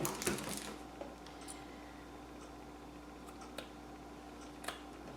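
Light handling of craft materials at a work table: a short rustle at the start, then a few faint, scattered clicks and taps over a steady low hum.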